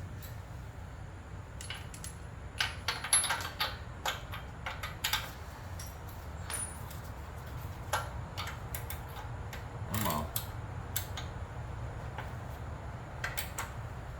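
Metal hand tools clinking and clicking in short bursts as a socket is changed and fitted to pull a generator's spark plug.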